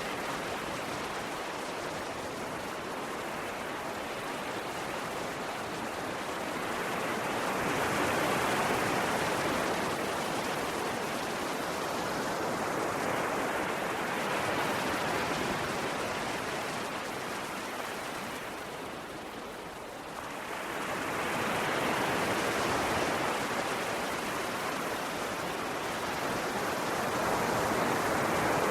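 Ocean waves washing onto a shore: a continuous rush of surf that swells and recedes every several seconds.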